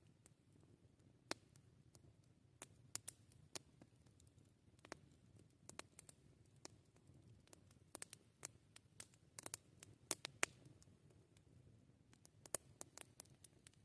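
Campfire crackling: burning wood giving off sharp, irregular pops and snaps, thickest in a cluster about eight to ten seconds in, over a faint low background.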